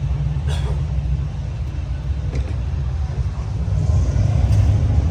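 Motorcycle engine running with a steady low rumble, getting louder about four seconds in.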